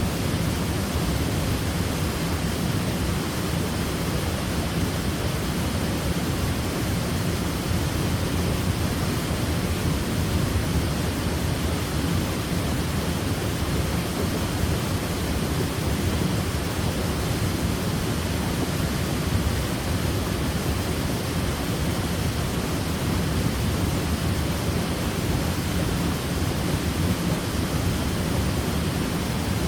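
Waterfall: a steady rush of falling water, a dense even roar weighted toward the low end, with no breaks or changes.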